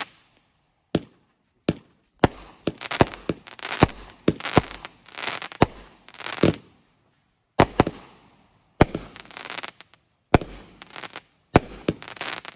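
Consumer fireworks going off in quick succession: sharp bangs, many trailed by crackling, with a few brief pauses between volleys.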